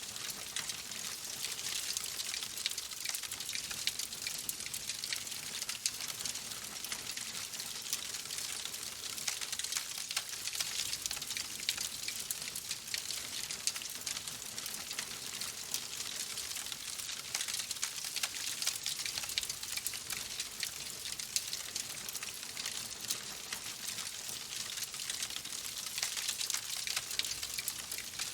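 Wood fire crackling in a fireplace: a steady hiss dense with small, quick pops and snaps.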